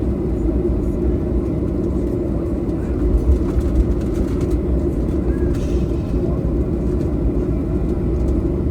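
Steady cabin rumble inside a Boeing 737-800 airliner, a low drone with a constant hum, broken by a few irregular low bumps.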